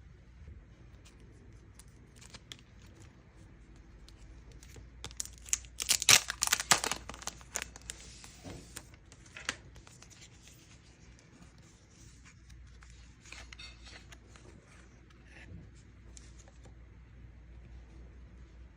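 Merchandise packaging being torn open and crinkled by hand, with a loud burst of tearing and crackling about five to seven seconds in and smaller crinkles after it.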